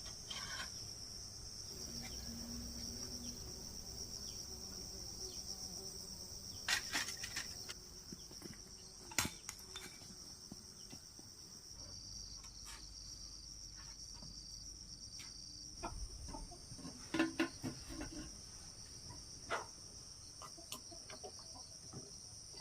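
Steady high-pitched chirring of crickets or other insects, with scattered knocks and clicks, the loudest clusters about seven and seventeen seconds in.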